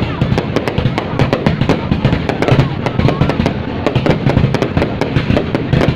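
Fireworks going off: dense rapid cracks and bangs, several a second, over a continuous rumble.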